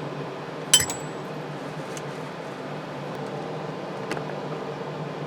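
A sharp metallic clink with a brief high ring, as a small metal part or tool is set down, about a second in, then a fainter click near the end, over a steady low hum.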